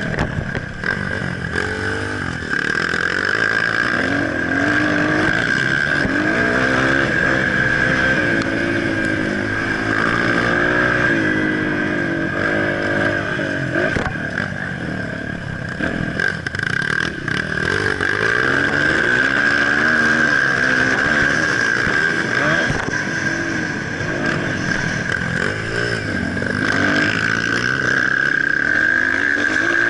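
Motocross bike engine revving up and down repeatedly as it is ridden, the pitch rising and falling every few seconds over a steady high whine.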